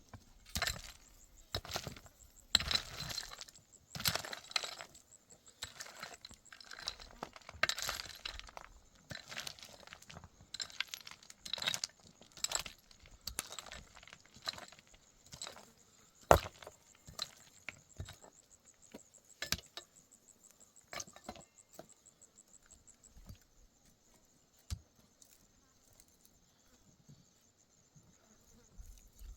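Irregular clinks and knocks of hard objects being handled, busiest in the first half, with one sharp loud strike near the middle. A cricket chirps steadily and high in the background.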